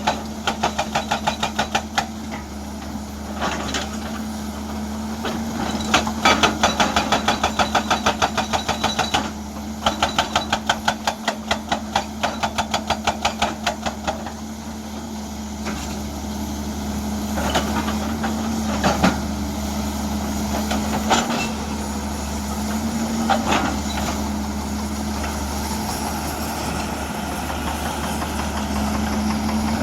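Hydraulic breaker hammer on a Hyundai excavator pounding rock in runs of rapid, evenly spaced blows, several a second. The excavator's diesel engine runs steadily under and between the runs, with a few single knocks in the middle.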